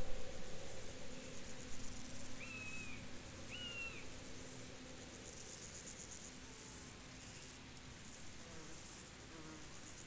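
Field ambience of insects chirping in high-pitched, rapidly pulsing trills that come and go in bouts, with two short whistled notes about two and a half and three and a half seconds in.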